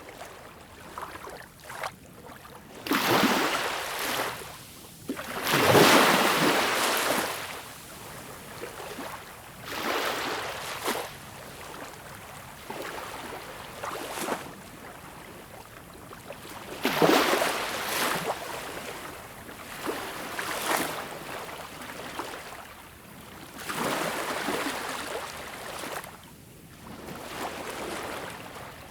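Gentle ocean waves breaking and washing up a beach, one after another every three to four seconds. Each is a rush of surf that swells and fades, about eight in all, with the biggest about six seconds in and again about seventeen seconds in.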